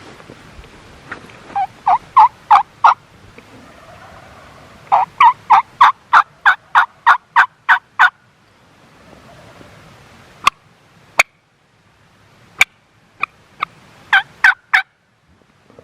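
Turkey yelping: a short run of yelps, then a longer series of about a dozen evenly spaced yelps, a few sharp single clucks, and a final quick run of yelps near the end.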